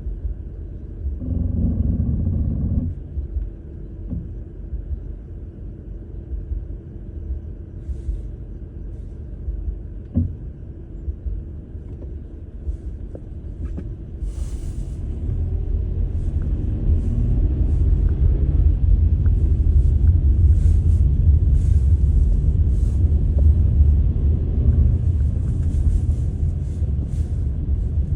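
Low, uneven rumble that grows louder about halfway through, with a short hum near the start and scattered faint clicks.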